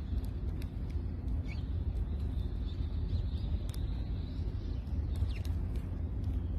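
Sparrows giving a few short chirps, with scattered sharp ticks, over a steady low rumble that is the loudest sound throughout.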